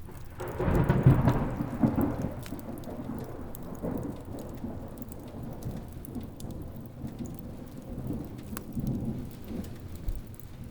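A thunderclap about half a second in, rolling into a long rumble that fades over several seconds with smaller swells later, over steady rain and the scattered small snaps of a crackling wood fire.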